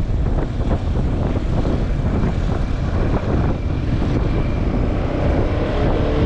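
Yamaha Xmax scooter on the move: wind buffeting the microphone over the steady drone of the engine and tyres.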